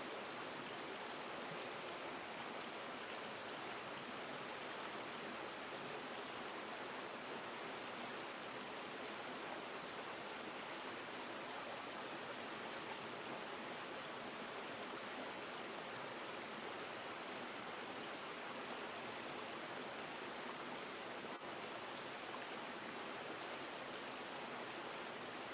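River water flowing over rocks in a steady, even rush, with no changes or separate events.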